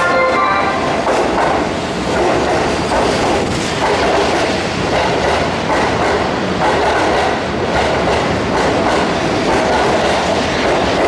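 Keihan Main Line electric train running along the platform of an underground station, its wheels clattering over the rail joints in a steady rhythm. A short horn note ends just as it begins.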